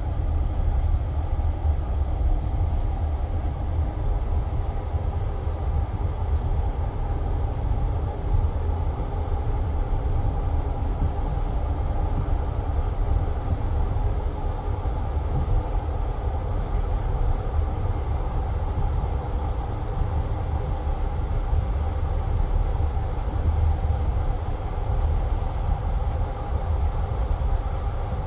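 Passenger train carriage rolling along at a steady pace, heard from inside the car: a continuous low rumble of wheels on rails with a faint steady hum above it.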